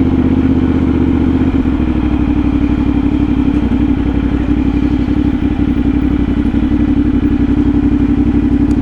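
CFMOTO 450SS parallel-twin engine running steadily through an aftermarket slip-on exhaust, at an even pitch. It stops abruptly near the end.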